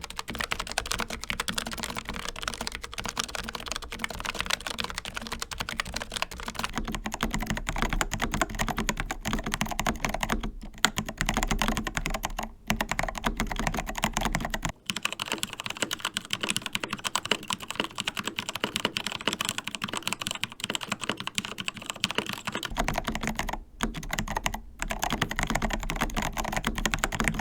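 Fast continuous typing on a Logitech MX Mechanical Mini keyboard with Kailh Brown tactile switches. About halfway through it changes to typing on a Keychron K4 with Gateron Brown tactile switches, which has a different click tone. There are a few brief pauses between bursts of keystrokes.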